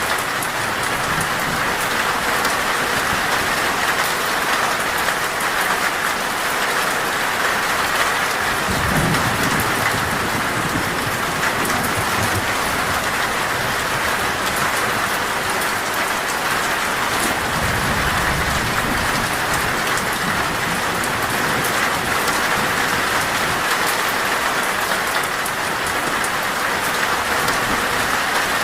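Heavy rain drumming steadily on a metal roof, a dense even hiss. Low thunder rumbles swell up twice, about a third of the way in and again past halfway.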